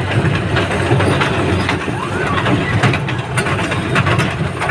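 Passenger train in motion: a steady low running noise with scattered short rattles and clicks.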